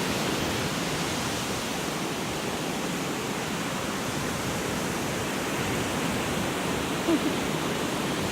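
Steady, even wash of ocean surf on a beach, with a short brief sound about seven seconds in.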